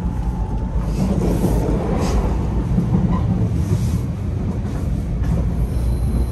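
Steady low rumble of a moving 500 Series Shinkansen, heard from inside the carriage.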